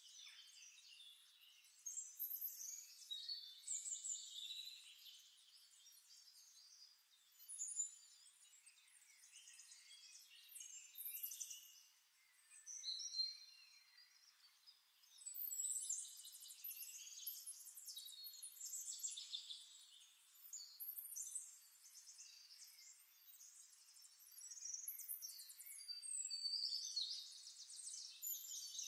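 Faint, high bird chirps and twitters in clusters that come and go, over a thin hiss.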